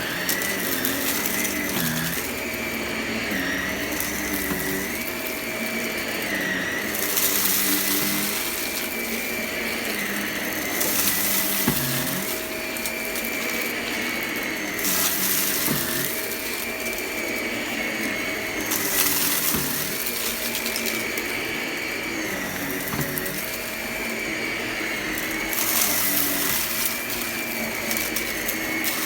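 Vacuum cleaner running steadily with a high motor whine that wavers slightly as it is pushed back and forth. Every few seconds comes a loud rush of hissing and rattling as it sucks up scattered crunchy debris.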